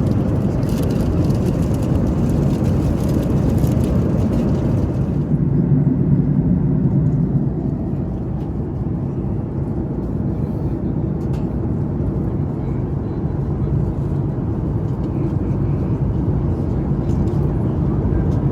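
Steady rumble of a Boeing 737 MAX 8's engines and airflow heard inside the passenger cabin. The higher hiss thins out about five seconds in while the low rumble continues.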